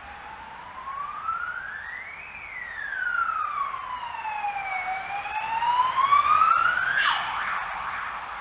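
Emergency vehicle siren wailing, its pitch rising and falling slowly, once every five seconds or so, and growing louder. About seven seconds in the wail breaks off abruptly into a quick downward swoop and a rougher, faster sound.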